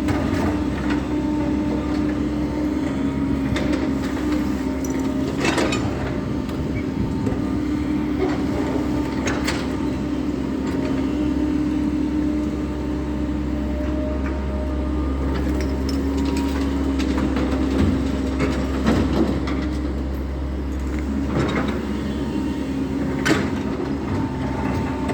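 SANY SY140 excavator's diesel engine running steadily at working speed, its pitch shifting slightly, with a few sharp knocks and clunks along the way.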